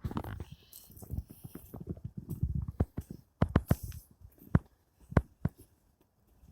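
Footsteps of a person walking outdoors: an irregular run of crunching steps and sharp knocks.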